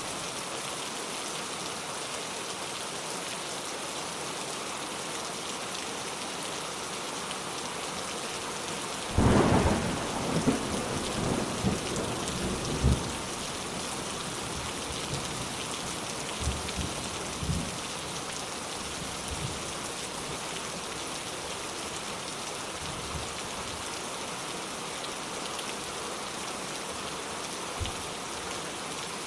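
Steady rain falling, with a clap of thunder about a third of the way in that rolls on for several seconds, followed by fainter rumbles of distant thunder.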